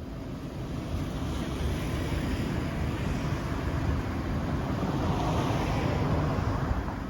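Waves washing onto a beach, with wind rumbling on the microphone; the surf swells a little past the middle.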